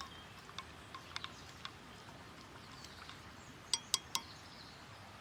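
Small clinks of a camp coffee cup and its utensils being handled: a few light taps, then three sharper clinks in quick succession a little past the middle.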